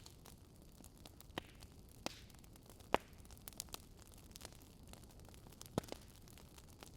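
Campfire burning: a soft steady hiss with sharp, irregular crackles and pops of burning wood, the loudest pop about three seconds in.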